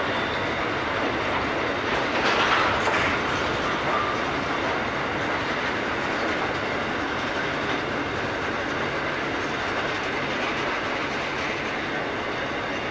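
Freight train's boxcars and container wagons rolling past at speed, a steady noise of steel wheels running on the rails, with a brief louder swell about two seconds in.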